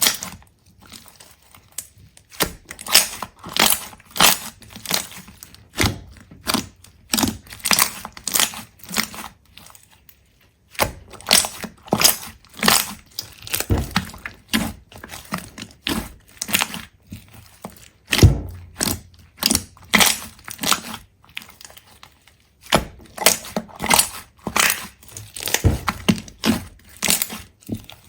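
Rapid, crisp crunching and crackling, many sharp clicks in quick clusters with brief pauses between them.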